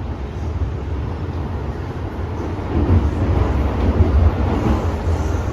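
MTR M-train in motion between stations: a steady low rumble of wheels and traction motors that grows louder and rougher about three seconds in.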